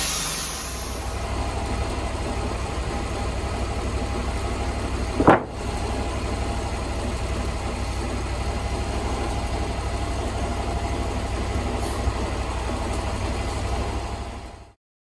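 Sawmill engine running steadily at idle after the cut, with one sharp loud knock about five seconds in. The sound cuts off suddenly near the end.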